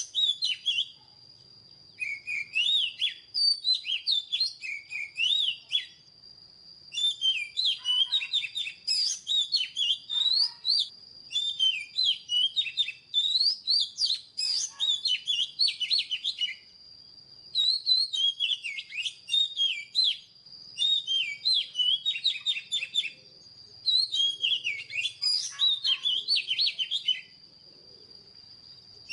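Oriental magpie-robin singing: a run of about seven phrases of rapid, varied whistled notes with sweeping rises and falls, each phrase a few seconds long with short pauses between. A faint steady high whine runs underneath.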